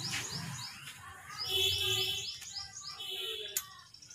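A bird singing nearby: runs of quick, high, downward-sliding chirps, several a second, in three bursts. A single sharp click about three and a half seconds in.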